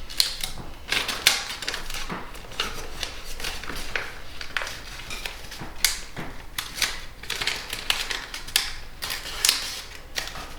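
Sheet of origami paper being folded and creased by hand: irregular crackles, rustles and sharp creasing snaps.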